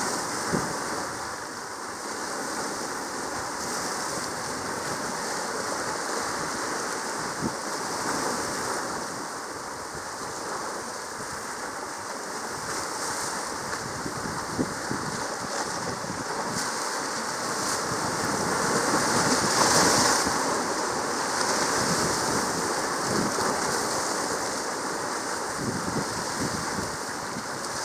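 Sea waves washing over a reef, mixed with wind on the microphone: a steady hiss of noise that swells for a couple of seconds about two-thirds of the way through.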